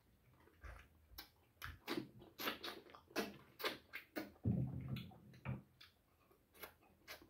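Close-up chewing and wet lip-smacking of a person eating boiled goat-head meat by hand: a run of short sticky clicks, two or three a second.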